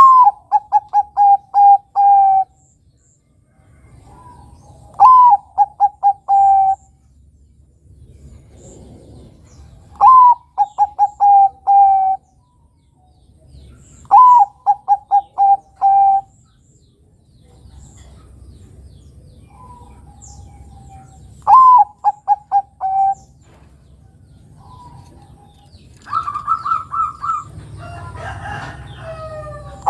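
Zebra dove (Bangkok-type perkutut) male singing: each phrase opens with a sharp high note and runs into a quick string of short cooing notes, about two seconds long, repeated five times at roughly five-second gaps. Near the end a different, higher held call mixed with rougher calling comes in.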